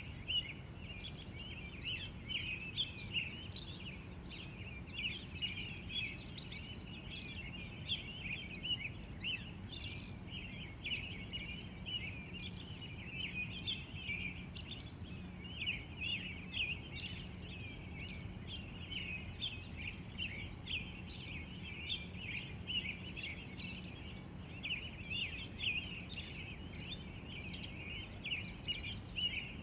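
Early-morning chorus of wild birds: many short chirps and trills overlapping without a break, with a few higher whistled notes now and then. Underneath run a steady high buzz and a low rumble.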